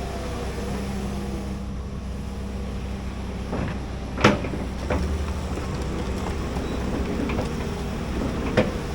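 Large excavator's diesel engine running steadily, with two sharp clanks, one about four seconds in and one near the end.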